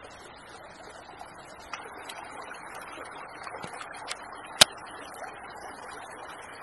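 Campfire of damp wood crackling, with scattered small snaps and one loud sharp pop about four and a half seconds in, over a steady rushing background of creek water.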